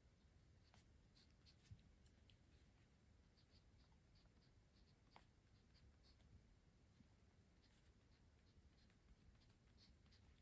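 Near silence, with faint scattered scratches and small ticks from stationery being handled.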